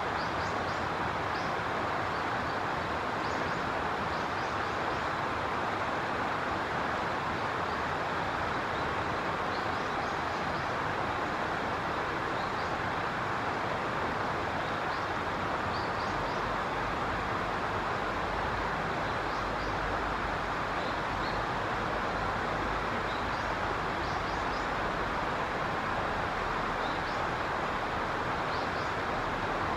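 Steady, even outdoor rushing noise with faint, brief high chirps scattered through it.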